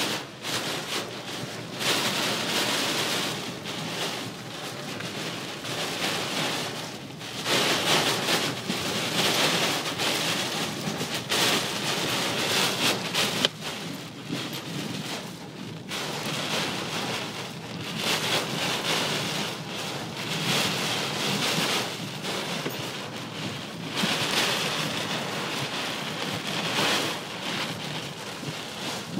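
Heavy storm rain, a dense hiss that swells and eases every few seconds.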